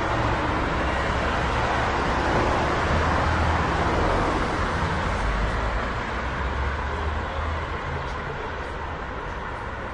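Street ambience of a small street heard from a third-floor window: a steady traffic hum with low rumble. It swells over the first few seconds, as a vehicle passes, then eases off after about the halfway point.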